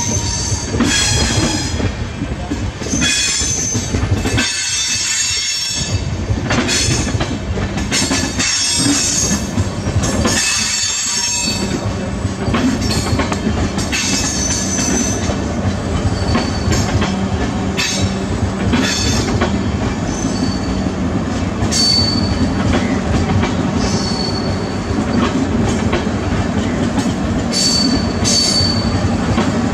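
LHB passenger coaches rolling past, wheels clattering over rail joints and points in a continuous rumble. Short high-pitched wheel squeals come now and then, mostly in the later part.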